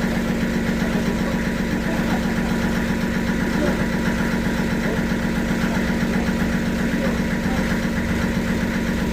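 Sawmill machinery running steadily: an even, unchanging mechanical drone with a strong low hum and no cut starting or stopping.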